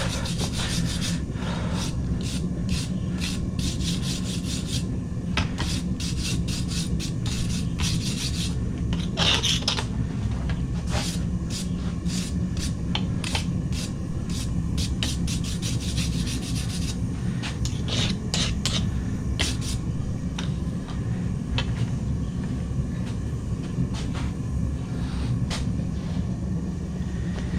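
Forge scale being scrubbed off a forged steel sword blade by hand, with rapid, irregular rasping strokes. A steady low hum runs underneath.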